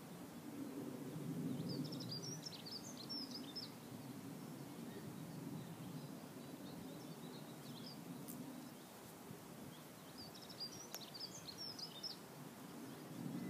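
A songbird singing short phrases of high chirping notes every few seconds, over a steady low rumble of outdoor background noise.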